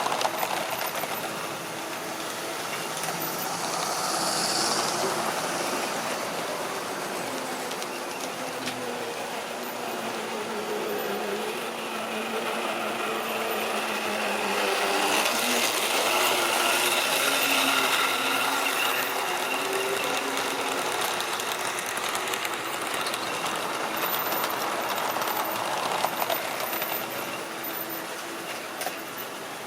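Model railway train running on track: the locomotive's small electric motor whirs and the wheels rumble along the rails. It grows louder about halfway through, then eases off slightly.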